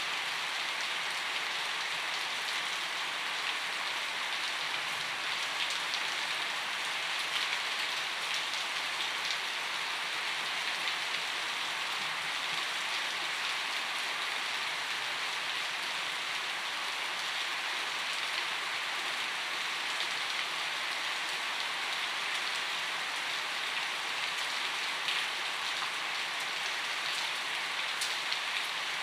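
Steady rainfall: an even hiss with scattered sharper ticks of single drops.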